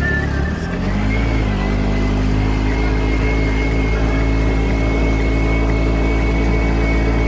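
Tricycle's motorcycle engine running under way, heard from the passenger cab: the engine note dips briefly less than a second in, then rises and holds steady, with a thin steady whine above it.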